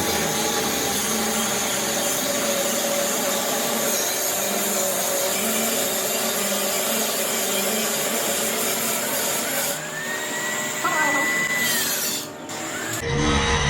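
A power tool running with a loud, steady noise. Near the end a whine rises, holds and falls, and then a low engine rumble starts abruptly.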